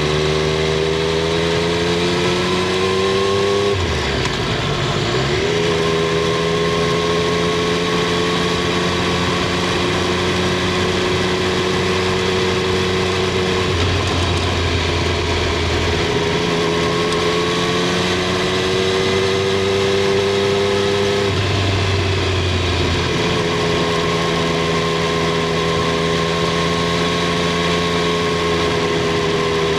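Triumph Street Triple 765 R's inline three-cylinder engine and exhaust heard from under the seat while riding. The revs climb at first and break off at a gear change about four seconds in. The engine then runs at a steady pitch, with two more shifts in the note later on.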